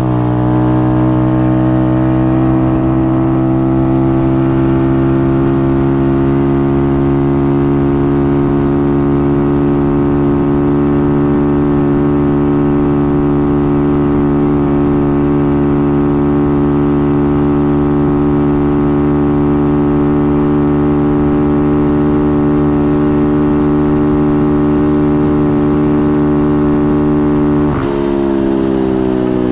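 125cc pit bike's single-cylinder engine held at steady high revs for a long stretch, with the revs dropping off near the end.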